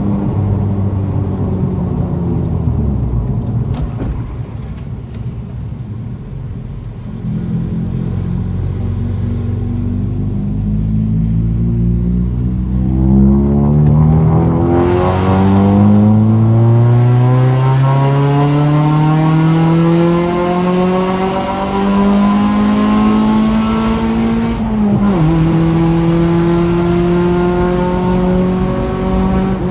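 Proton Waja's Mitsubishi 4G18 engine running through a custom full exhaust, its note climbing steadily for many seconds as the revs build. Near the end the pitch dips briefly, then holds steady.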